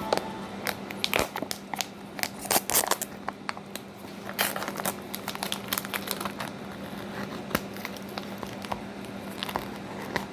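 Packaging crinkling and rustling as it is handled, with scattered clicks and taps, over a steady low hum.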